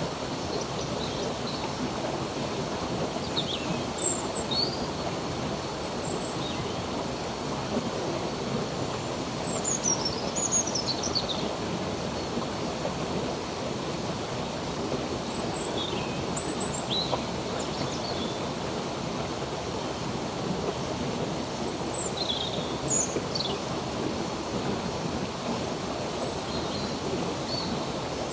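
Steady rush of a flowing stream, with small birds chirping over it in short, high, sweeping notes every second or two.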